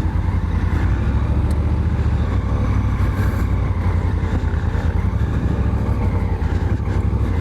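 Honda Africa Twin's parallel-twin engine running at low, steady revs.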